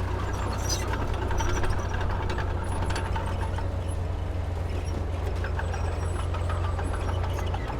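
Heavy diesel engine of earthmoving equipment running steadily with a low, even drone, over scattered light clicks and clatter.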